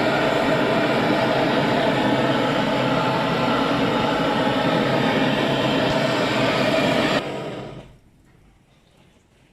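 Loud, steady running noise of alloy-wheel repair equipment, cutting off sharply about seven seconds in and dying away over the next second.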